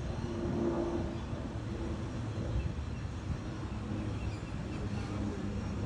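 Steady low engine drone with a continuous rumble, the kind of background from traffic or a running motor.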